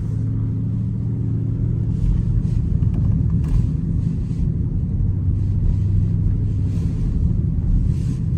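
Car engine running steadily at low speed with a low exhaust note, no revving.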